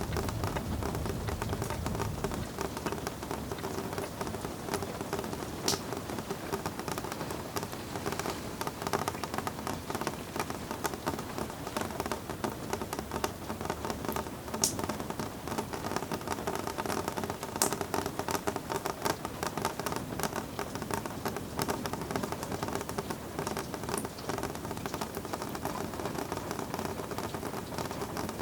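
Steady rain falling, a dense patter of small drops with a few sharper, louder drop hits scattered through it.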